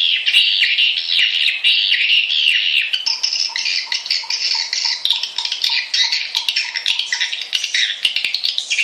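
Recorded swiftlet lure call: a dense, unbroken chorus of high, buzzy twittering chirps from swiftlets, played to attract them to nest. A faint regular ticking runs beneath it, about four a second, and stops near the end.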